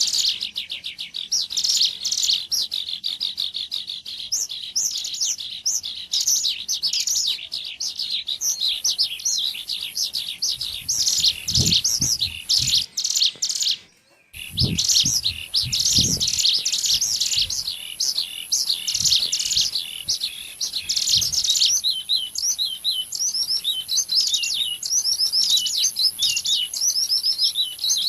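Ciblek gunung (a mountain prinia) calling in rapid, high, chirping runs, played as a bird-lure recording. There is a brief cut-out about halfway, with a few low thumps around it. In the last few seconds the notes come as separate quick downslurred chirps.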